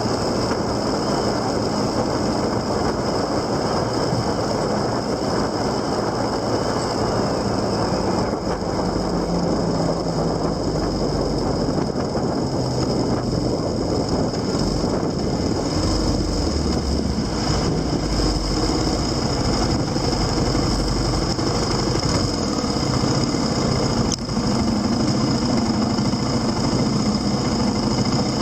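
Motorcycle engine running under way, its note shifting up and down, over a steady rush of wind and road noise.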